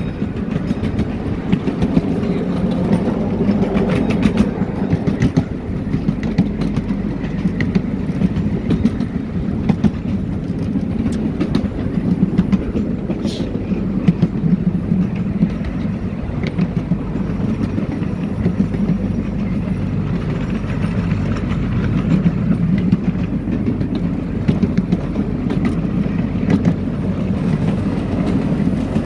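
Miniature ride-on train running along its track, heard from a seat in an open car: a steady rumble with a continual clatter of wheels over the rails.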